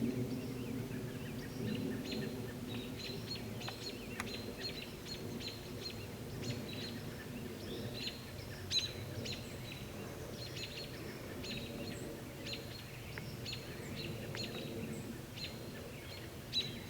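Small birds chirping over and over in short, high notes over a steady low background rumble, with a brief knock about halfway through and another near the end.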